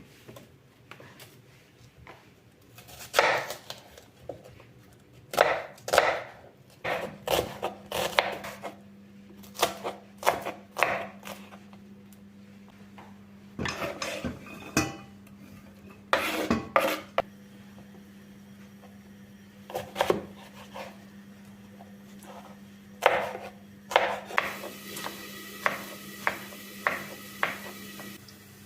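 Kitchen handling sounds: scattered knocks and clatters of dishes, utensils and wooden surfaces being set down and moved. A steady low hum comes in about seven seconds in, and near the end a hiss joins with a run of evenly spaced ticks.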